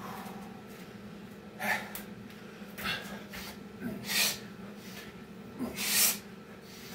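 A man breathing hard during burpees, with four loud, sharp breaths about a second or two apart, over a steady low hum.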